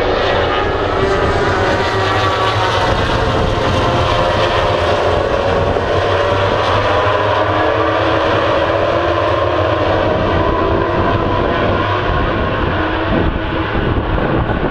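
A pack of MotoGP racing motorcycles passing in a continuous stream, their engines running at high revs, loud and steady, with the pitch of the many overlapping engines gliding up and down as the bikes go by.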